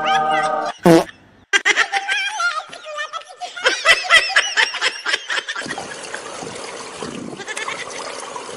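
People laughing in high-pitched bursts for several seconds, after a short held tone and a brief sharp cry about a second in. From about six seconds in there is only a steady outdoor hiss.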